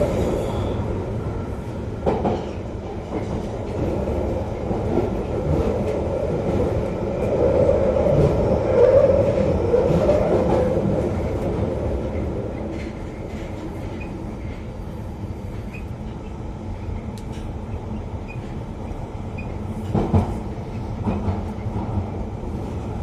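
London Underground Piccadilly line train running, a steady rumble of wheels and motors that swells to its loudest about eight to ten seconds in and then eases off. A couple of sharp knocks come through, one shortly after the start and one near the end.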